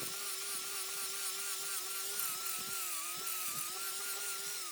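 Electric motor running at steady speed with a whining tone and a hiss, then switched off near the end and winding down, its pitch falling as it coasts to a stop.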